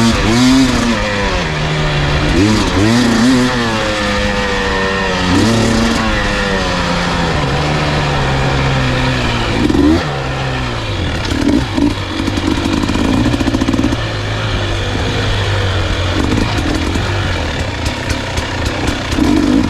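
Dirt bike engine revving up and down again and again as the bike is ridden along a trail, then running steadier with a few short blips of throttle in the second half.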